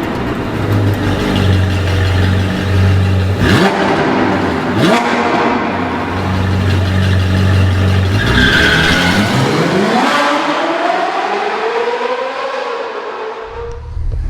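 V8 sports car exhaust, rumbling low with a couple of quick blips, then a long rev that climbs about eight seconds in and falls away again.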